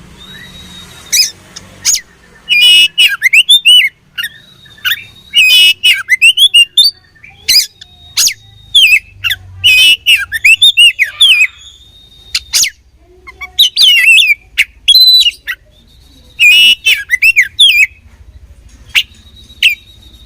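Oriental magpie-robin (kacer) singing loudly: repeated clusters of rapid chirps and sweeping whistled notes, with a thin, steady, high whistle held between phrases.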